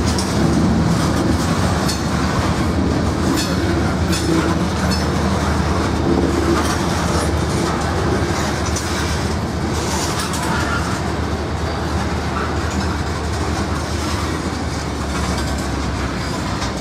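Norfolk Southern freight train rolling past, its wheels clicking over the rail joints over a steady low rumble.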